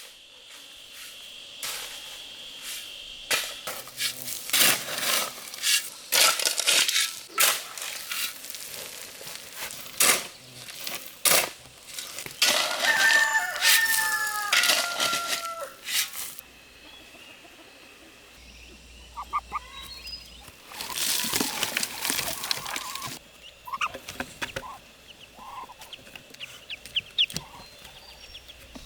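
Chickens clucking and a rooster crowing in a series of loud calls, with a faint steady insect trill underneath.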